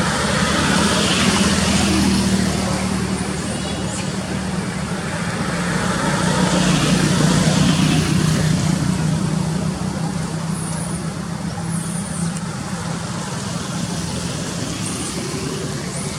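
Motor vehicle engines running on a road, a steady low drone that swells twice as traffic passes.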